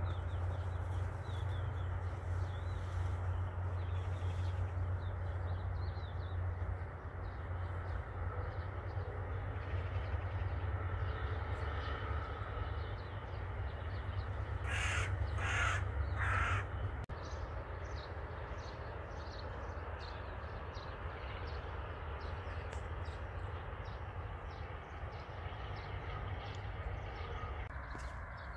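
A bird calls three times in quick succession about halfway through, over a steady low rumble of outdoor background noise.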